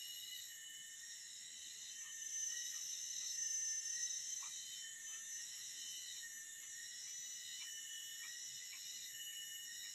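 Dense insect chorus: several steady high-pitched drones layered at different pitches, some swelling and fading slowly, with faint short chirps scattered through.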